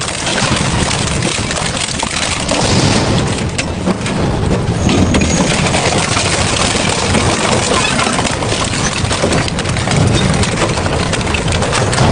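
Industrial double-shaft shredder running under load, its cutters grinding and crunching scrap in a dense, steady stream of cracks and crunches.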